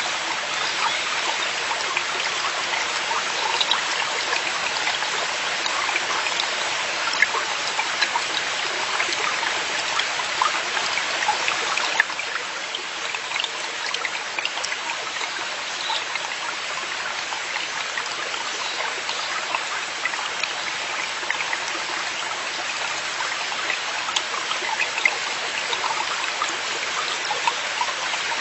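Forest valley stream flowing over rocks: a steady rushing with small splashes and trickles, a little quieter from about twelve seconds in.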